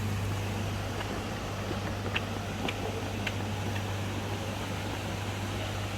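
Steady rushing noise of a waterfall, with a few short high ticks about two to three seconds in.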